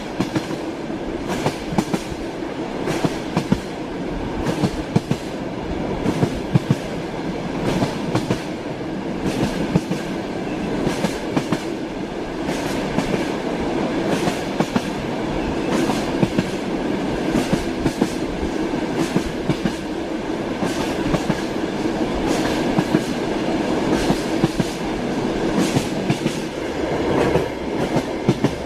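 Train running on the rails: a steady rumble from the carriage, with the wheels clacking over rail joints several times a second.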